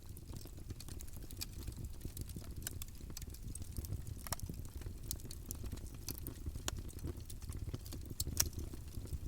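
Campfire burning: wood crackling and popping in irregular sharp snaps over a low steady rumble of the flames, with a louder pop about halfway through and another near the end.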